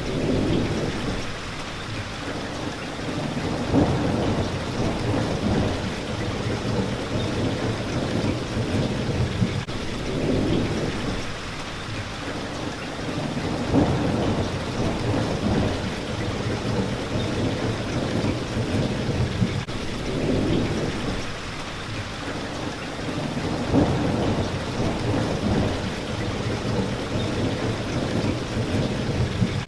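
Steady rain hitting a window, with low rumbles of thunder swelling about every ten seconds.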